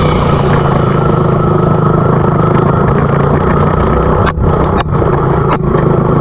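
Small dirt bike engine running steadily, with three brief breaks in the sound between about four and five and a half seconds in.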